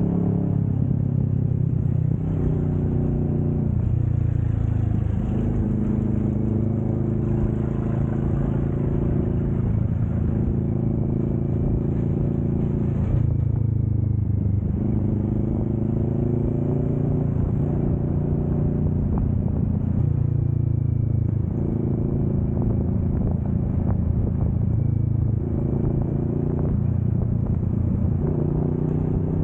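Kawasaki Vulcan S 650's parallel-twin engine running on the move, its pitch dropping and rising several times, most clearly about thirteen seconds in.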